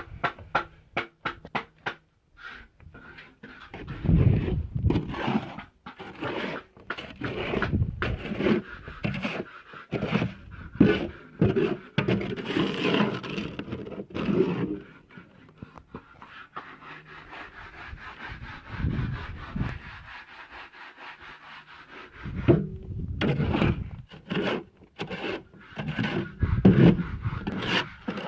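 Irregular scraping and rubbing strokes of a hand tool working through concrete mix, with a quick run of clicks at the start.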